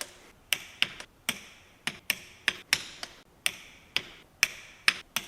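A hand wrench clicking as it tightens the engine's cover bolts: about three sharp metallic clicks a second, unevenly spaced.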